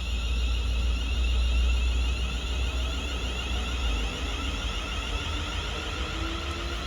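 A train running through the station: a deep rumble with steady high-pitched tones over it. The rumble eases about four seconds in.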